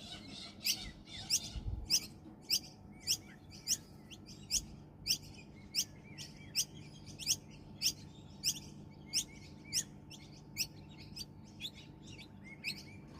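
A bird chirping over and over, one sharp, high, upward-sweeping chirp about every 0.6 seconds in a steady, insistent rhythm.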